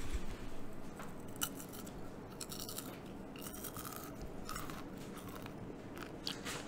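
A person chewing a mouthful of chocolate-coated popcorn, with irregular crisp crunches.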